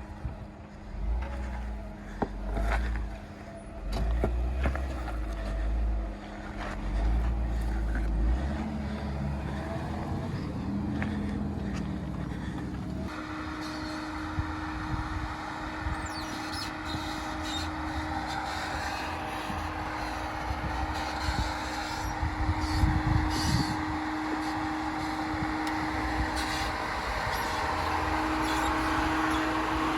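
Jeep engine on a rocky off-road trail, in uneven bursts of throttle for the first several seconds, with a rev rising around ten seconds in. At about thirteen seconds it changes abruptly to steady, even engine running.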